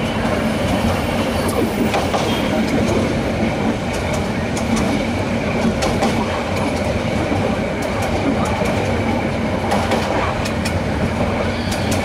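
A train running along the track: a steady rumble and clatter of the wheels on the rails, with scattered sharp clicks that come more often near the end.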